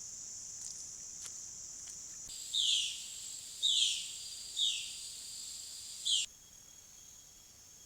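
Steady high-pitched insect chorus with four short, downward-sliding calls from an animal, about a second apart, in its middle part; after the last call the chorus becomes abruptly quieter.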